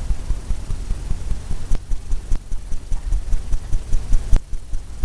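A bristle brush working oil paint on a stretched canvas, making a fast, uneven run of low thumps as the taut canvas drums under the strokes, with a few sharp clicks.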